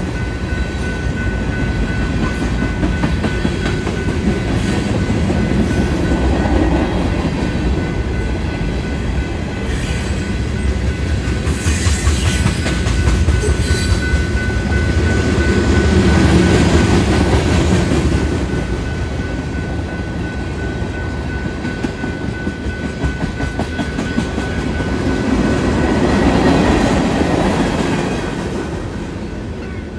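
Union Pacific freight train rolling past at a grade crossing: a steady rumble of cars with wheels clattering over the rail joints, swelling louder and easing several times.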